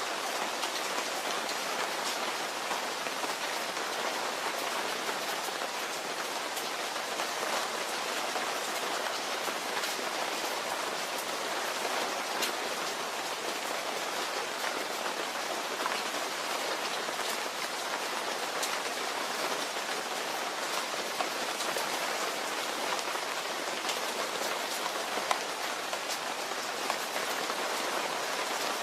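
Steady rain falling on a surface, an even hiss dotted with the ticks of single drops striking close by.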